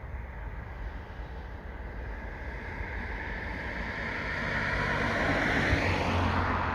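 A passing vehicle: a rushing noise swells over several seconds with a slowly falling pitch, peaks near the end and begins to fade.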